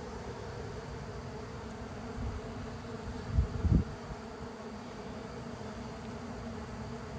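A honeybee swarm buzzing in a steady, dense hum. Two short low thumps a little past the middle.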